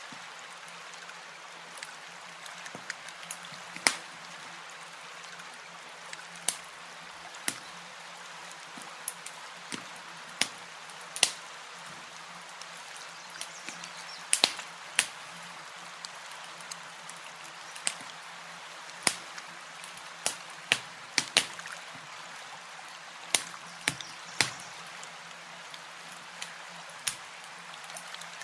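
Campfire crackling: irregular sharp pops and snaps, a few each second and some much louder than others, over a steady soft hiss.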